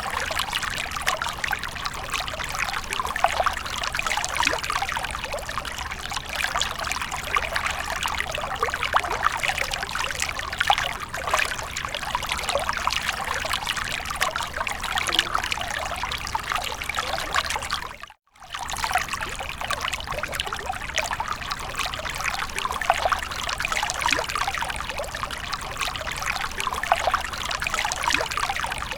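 Water from a fountain splashing and trickling in a steady, dense patter. It cuts out for an instant about eighteen seconds in, then carries on.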